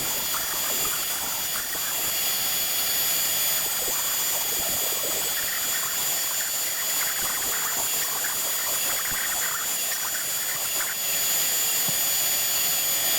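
CNC router spindle running and cutting wood: a steady high whine over a dense hiss, with irregular crackling as the bit chips through the wood.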